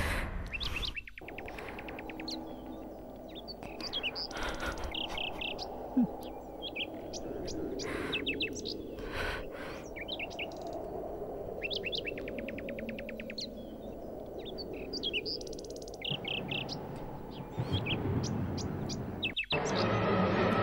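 Birds chirping and trilling in short, repeated high phrases over a steady outdoor background hiss.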